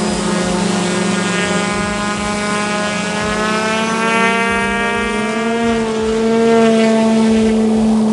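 Steady drone of a propeller aircraft's engine, with a strong low hum and overtones that slowly drift in pitch, growing a little louder near the end.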